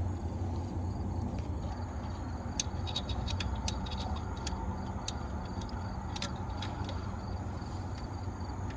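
Light, irregular metallic clicks of a wrench being worked onto a stud in the engine bay, over a steady low background rumble.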